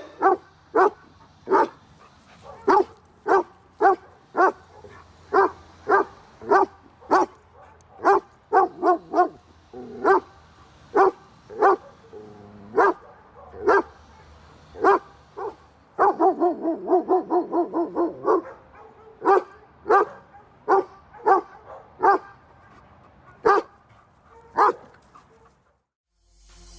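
German Shepherd barking repeatedly in short, sharp barks about one or two a second, breaking into a quick run of rapid barks about two-thirds of the way through.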